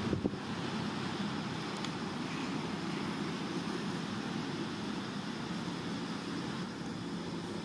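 Steady low rumble of outdoor background noise, with a brief clatter at the start.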